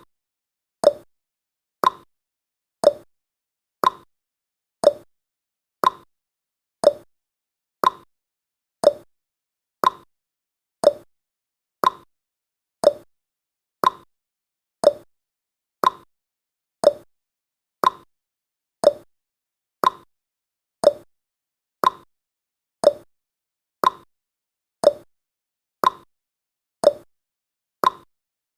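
Countdown timer sound effect: one short tick every second, evenly spaced and at an even loudness.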